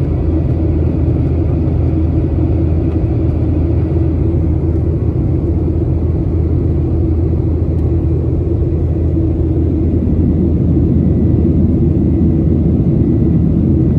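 Cabin noise of a Boeing 737-800 in flight: a steady deep rumble of its CFM56 jet engines and the rushing air, with a faint steady whine, growing slightly louder about ten seconds in.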